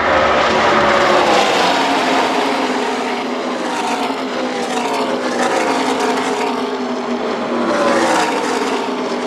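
A pack of NASCAR Truck Series race trucks at full speed running past in the draft. Many overlapping V8 engine notes drop in pitch, one after another, as the trucks go by.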